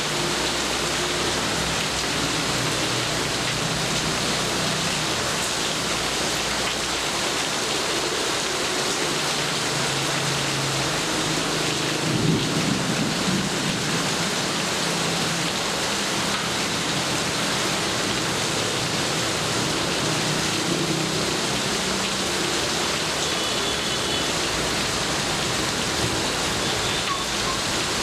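Steady heavy rain falling. A roll of thunder peaks about halfway through.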